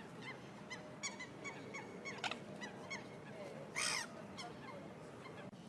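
Birds calling, many short honking calls in quick succession, with one loud harsh burst about four seconds in.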